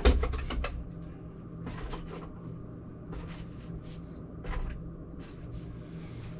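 A sharp knock right at the start, then scattered clicks and knocks of tools and fittings being handled at a leaking ice maker stop valve, over a steady low hum.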